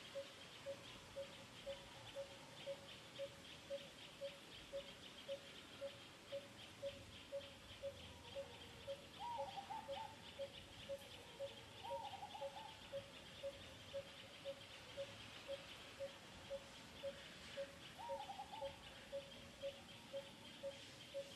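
Quiet outdoor wildlife ambience: a bird repeats one short low note steadily about twice a second over a constant trilling of insects. Three short wavering calls come a few seconds apart in the middle and near the end.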